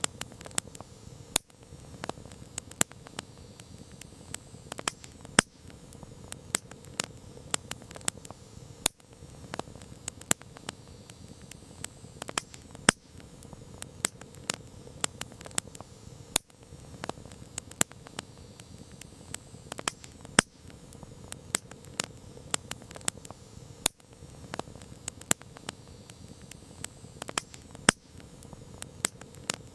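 Campfire crackling: frequent irregular sharp pops and snaps over a steady low hiss of burning wood.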